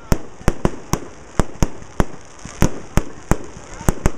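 Aerial fireworks bursting overhead: a rapid, irregular series of about a dozen sharp bangs, each trailing off briefly.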